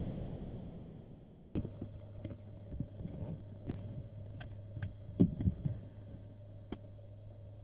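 Scattered raindrops tapping irregularly on a car's windscreen and roof, over a steady low hum inside the car; the taps come thickest about five seconds in.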